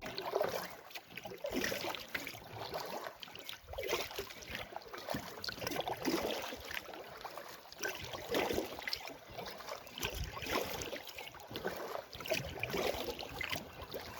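Canoe on the water: irregular splashing and trickling of water from paddling, with a steady wash in the background.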